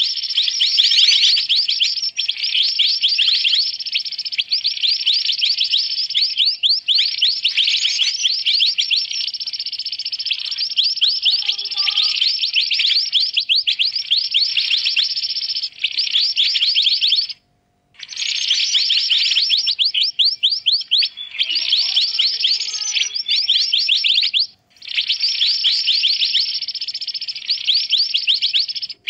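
Bird-lure recording of mantenan birds in a busy, noisy chatter: long bouts of very rapid high chirps. The chatter breaks off briefly twice, about 18 and 25 seconds in.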